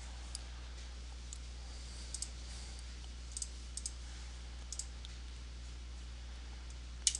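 Computer mouse clicking: scattered single and double clicks over the first five seconds and one more near the end, over a steady low electrical hum.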